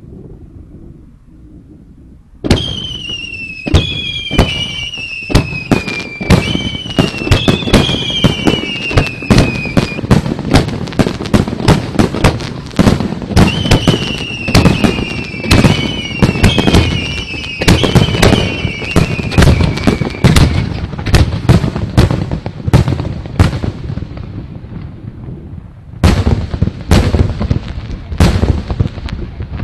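Fireworks going off in a dense barrage of bangs and crackles starting about two seconds in, mixed with repeated whistles that fall in pitch. The barrage thins out, then a last cluster of bangs comes near the end.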